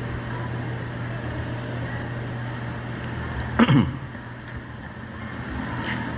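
Steady low hum and rumbling background noise, with one brief vocal sound about three and a half seconds in.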